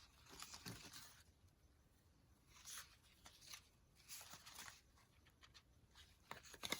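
Faint rustling of paper and stickers being handled, in a few short patches, with a small sharp click near the end.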